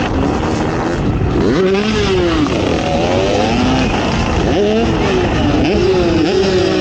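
Off-road ATV engine revving hard: its pitch climbs quickly and falls away several times, about a second and a half in, near the middle and again toward the end, over a constant noisy rush.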